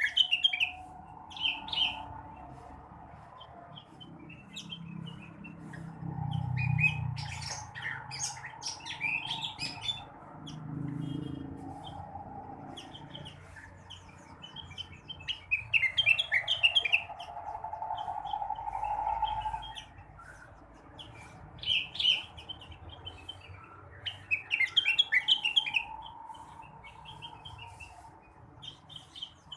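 Rengganis (cucak wilis) songbird singing in repeated bursts of quick chirps and trills, with pauses between phrases. A steady mid-pitched drone comes and goes underneath, and a low rumble rises briefly twice.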